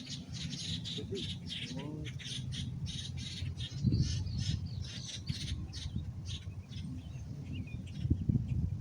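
Birds calling in quick, repeated chirps, about three or four a second, over a steady low rumble of wind on the microphone.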